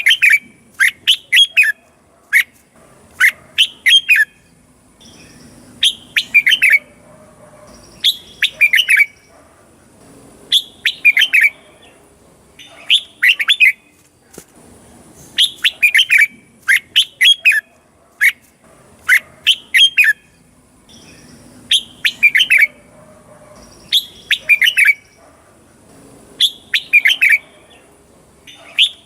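Red-whiskered bulbul singing: short, clear phrases of a few quick notes, repeated about every two seconds.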